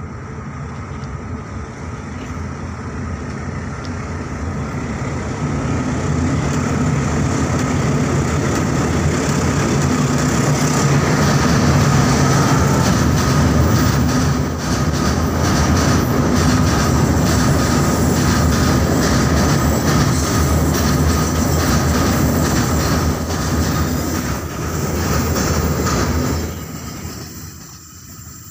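Freight train of rail tank wagons crossing a steel truss railway bridge. A heavy rumble builds over the first few seconds, then holds loud and steady with a rapid clatter of wheels over the rails. Near the end it drops suddenly to a much quieter, distant rumble.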